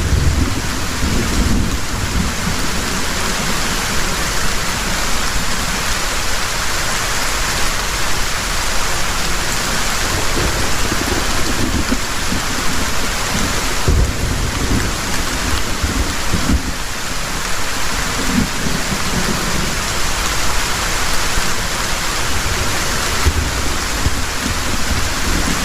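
Heavy rain pouring steadily, with low rolls of thunder rumbling in and out, the strongest at the start and again about halfway through.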